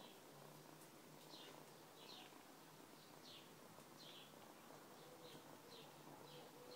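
Faint, repeated high chirps, about two a second, each sliding downward in pitch: a small bird calling in the background.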